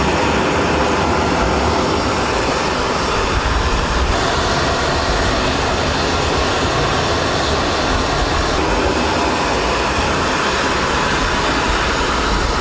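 Jet aircraft engines running, a loud, steady, even rushing noise with no change in pitch.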